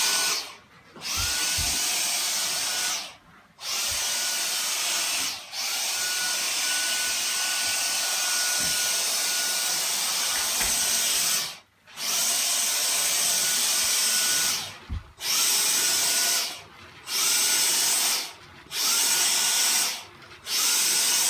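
Small vacuum cleaner motor switched off and on again about eight times. Each time it starts, its whine climbs in pitch and then holds steady.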